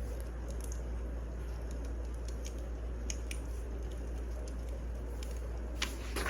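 Wood fire burning in a fireplace: a steady low rumble with scattered sharp crackles and pops, and a louder crackle near the end.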